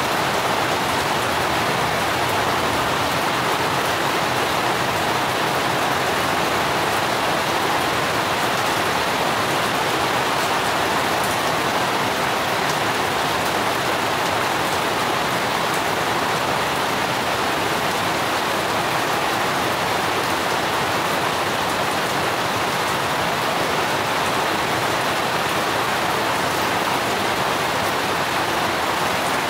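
Steady rain falling on garden plants, an even hiss that does not let up.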